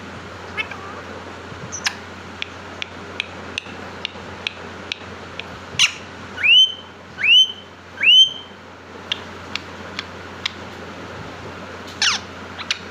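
A parrot chirping and clicking in short notes, then giving three loud whistles in a row about halfway through, each sweeping upward and holding, and a falling call near the end.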